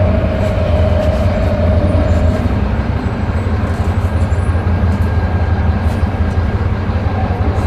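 Scania K310IA articulated bus's diesel engine running under way, a deep steady rumble, with a high whine that fades out about two seconds in.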